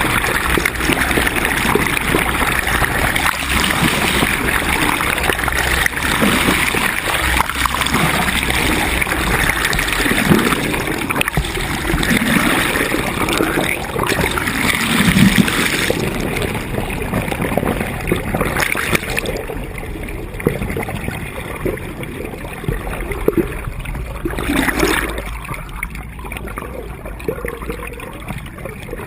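Water rushing and gurgling along the hull of a sailboat under way, louder in the first half and easing off after about halfway, with a few brief splashes.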